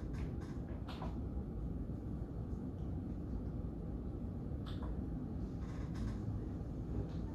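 Room tone in a lecture room: a steady low hum with a few short, faint clicks.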